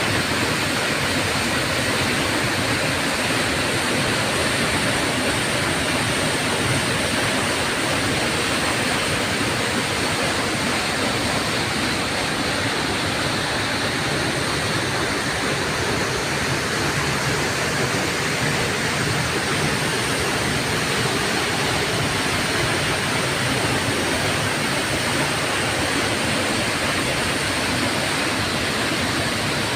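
Waterfall splashing, a steady, unbroken rush of falling water.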